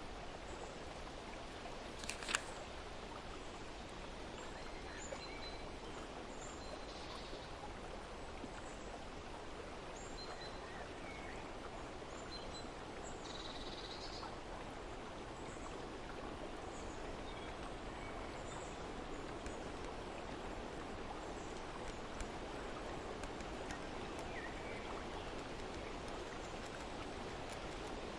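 Outdoor nature ambience: a steady low rush with a few short, high bird chirps scattered through it. There is one sharp click about two seconds in.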